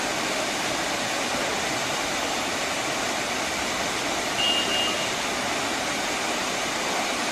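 Waterfall rushing in a steady, even roar of falling water. A short high tone sounds briefly a little past halfway.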